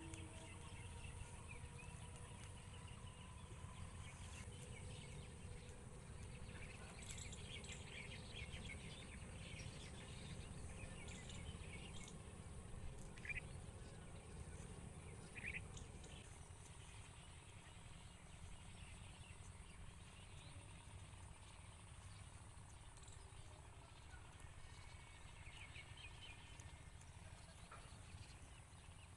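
Quiet open-air ambience: scattered bird chirps over a steady low background rumble, with two short, clearer calls about halfway through.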